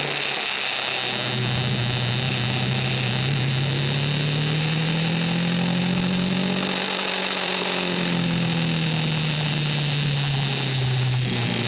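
KTM RC 390's single-cylinder engine running at road speed: its note dips at the start, climbs gradually to a peak about seven seconds in, then eases back off. A steady hiss of wind and tyre noise runs over it.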